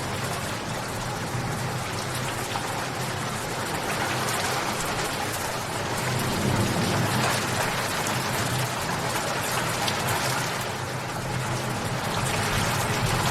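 Steady rain falling, a dense, even patter of drops that swells a little about halfway through and again near the end.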